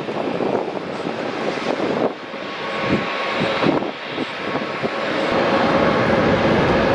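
Airliner's engines heard as a rushing roar that grows louder and steadier about five seconds in, with a faint steady whine near the end.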